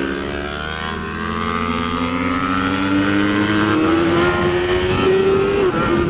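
Onboard motorcycle engine on a racetrack, its pitch climbing steadily under acceleration, then dropping sharply near the end at a gear change. The steady note of another motorcycle's engine runs alongside and stops partway through.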